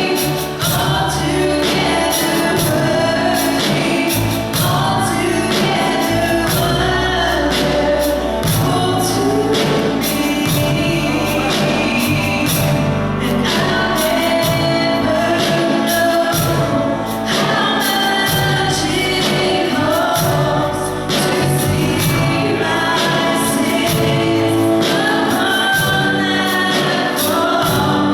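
Gospel song with singing over a band: a steady beat and a bass line.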